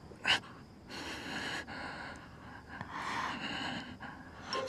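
A person's breathing: a quick sharp gasp about a third of a second in, then three long, heavy breaths.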